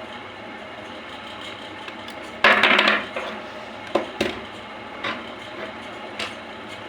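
Clicks and clatter of small hard objects being handled on a work surface: a loud rattling burst about two and a half seconds in, then several single sharp clicks, over a steady background hiss.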